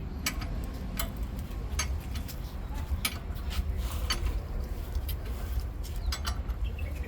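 Irregular sharp metallic clicks and taps, like tools and metal parts being handled, over a steady low rumble.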